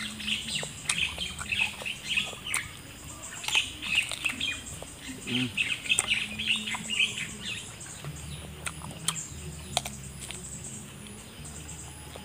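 A person chewing and biting raw green banana close to the microphone, in repeated clusters of crisp, wet mouth sounds that thin out after about seven seconds.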